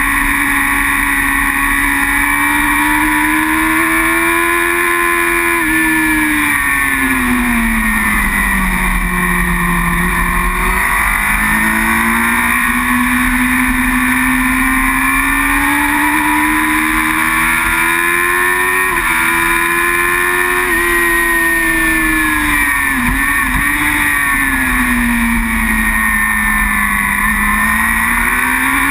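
Racing superbike engine under race load, close up: the revs climb steadily through the gears, fall away for several seconds twice as the bike slows, then climb again, with quick breaks at the gear changes, over a steady rushing noise.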